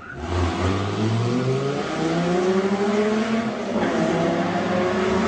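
Supercar engine accelerating, its pitch climbing steadily, with a short break in the note about four seconds in.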